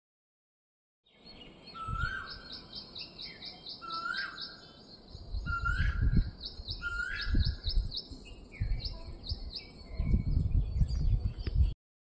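Outdoor birds calling and chirping: a short rising call repeated every second and a half or so, fast trills of high ticking notes, and a thin high whistle. Bursts of low rumble break in, heaviest near the end, and the sound starts and cuts off abruptly.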